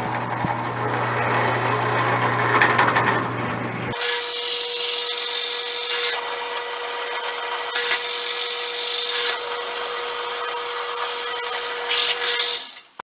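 Power tool cutting steel: a continuous grinding noise with a steady whine. It changes abruptly about four seconds in and stops shortly before the end.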